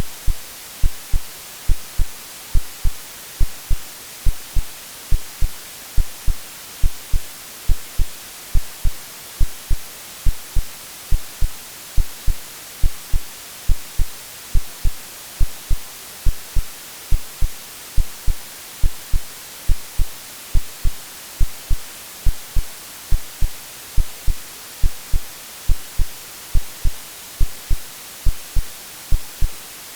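AI-generated heartbeat sound: low, evenly spaced lub-dub thumps about once a second, over a steady white-noise hiss.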